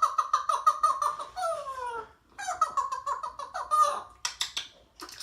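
Pet parrot vocalising without words: two runs of rapid, warbling chatter with falling whistled notes, then a short harsh squawk about four seconds in.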